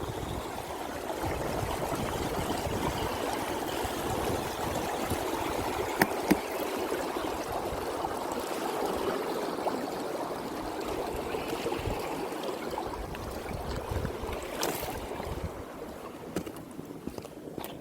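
Steady rushing of running water, like a small mountain stream, with a few sharp clicks about six seconds in and another near the end.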